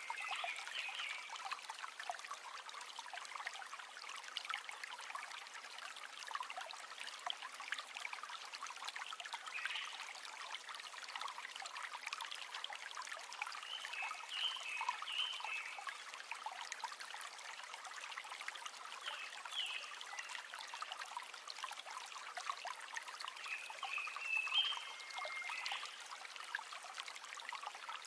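River water trickling and babbling steadily, a fairly faint, high, even rush, with a few brief higher-pitched calls now and then.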